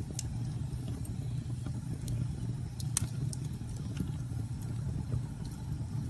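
Wood fire crackling in a fireplace, with scattered sharp pops and one louder pop about three seconds in, over a steady low rumble.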